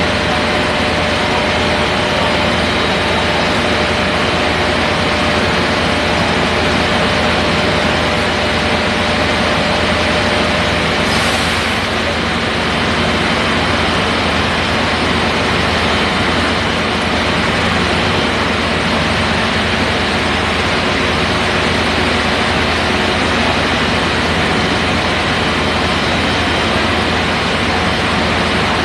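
A fire truck's heavy engine idling steadily, with a short hiss about eleven seconds in.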